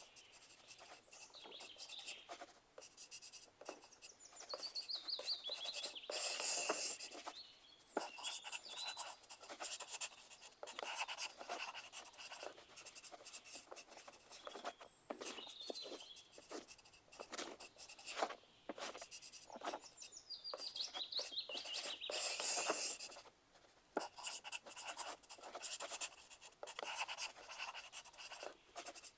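Pencil writing on paper: continuous scratching strokes and taps, with louder flurries of fast scribbling twice, about six seconds in and again near twenty-two seconds.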